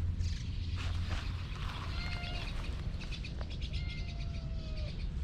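Orange-and-white cat meowing twice: a short meow about two seconds in and a longer, drawn-out meow near four seconds, over a steady low rumble.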